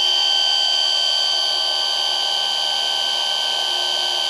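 Gasland BS318 propane tankless water heater running with its water pump on and burner lit: a steady high-pitched whine over an even hiss.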